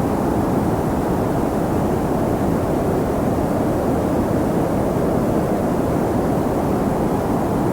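Wind blowing steadily: a deep, even rush with no gusts, breaks or other sounds.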